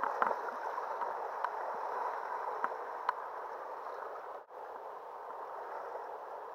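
River water rushing and gurgling around a kayak, with a few light clicks and splashes. The sound cuts out for an instant about four and a half seconds in.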